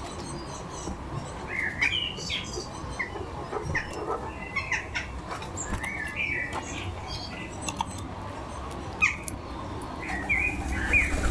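Small birds chirping and calling in short, scattered notes, with a few light clicks and taps among them.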